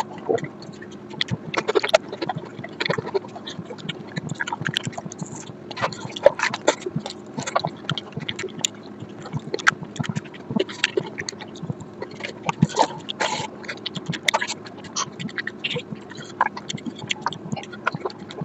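Close-miked chewing and lip smacking while eating curry and rice, a run of irregular wet clicks and smacks over a faint steady hum.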